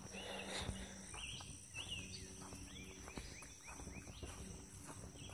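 Faint bird chirps outdoors: a run of short, arched high notes, several in quick succession around the middle, over light background noise.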